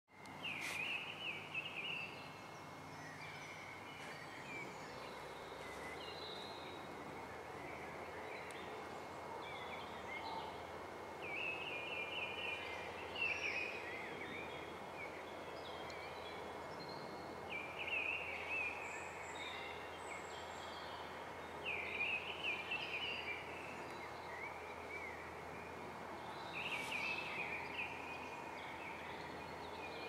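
Songbirds singing short, chirping phrases that come again every few seconds, over a steady background hiss.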